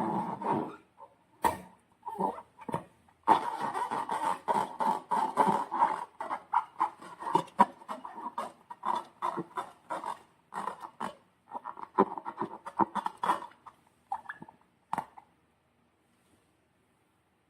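Slime being squished and worked by hand: dense sticky crackling and wet clicks, coming in runs, then stopping about two seconds before the end.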